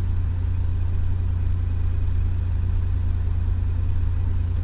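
1996 Mazda MPV's 3.0 L V6 idling steadily, a constant low hum heard from inside the cabin.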